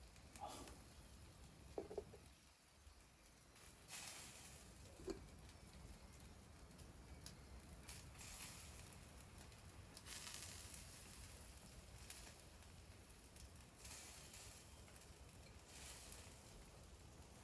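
Faint wood fire crackling with a few small pops and soft swells of hissing.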